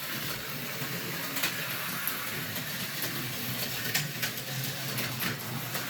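A Tyco HO slot car running laps on its track: the small electric motor whirs steadily, with scattered light clicks.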